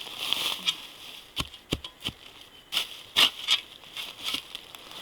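Irregular crunches and rustles of dry leaf litter and twigs on the forest floor, a sharp crackle every half second or so.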